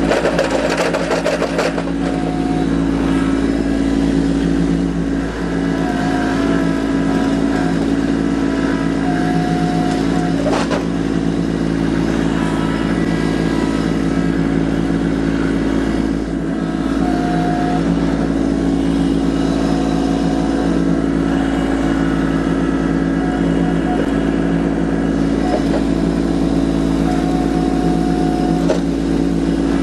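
Kubota LX2610 compact tractor's three-cylinder diesel engine running steadily while working, with short higher-pitched whines coming and going. There is a clatter in the first second or so and a sharp knock about ten seconds in.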